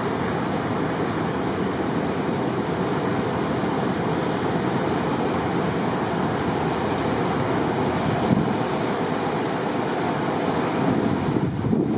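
Heavy surf pounding the beach in a continuous roar, raised by typhoon swell, with wind buffeting the microphone.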